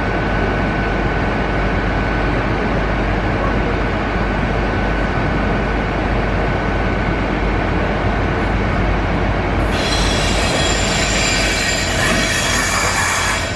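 Diesel-locomotive-hauled passenger train arriving, its running noise loud and steady. About ten seconds in, a squeal of many high tones joins in.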